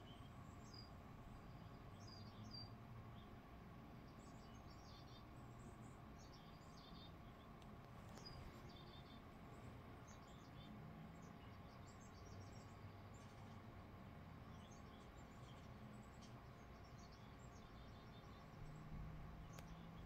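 Faint, scattered bird chirps and calls from a nature video playing on a television, over a steady low hum.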